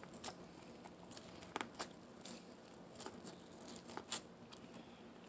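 Quiet eating sounds of a person biting and chewing corn on the cob: small, irregular clicks and smacks, the sharpest about two and four seconds in.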